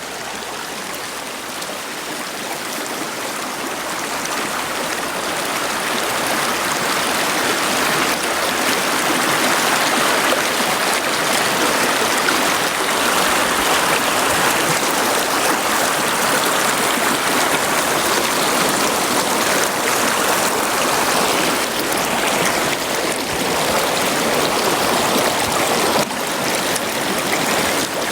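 River water rushing and gurgling steadily, growing louder over the first ten seconds or so and then holding level.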